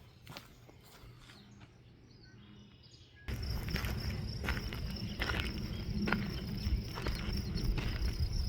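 Footsteps on a hiking trail, faint at first; about three seconds in the sound turns suddenly louder, with a steady high insect chorus and a low rumble under the repeated steps.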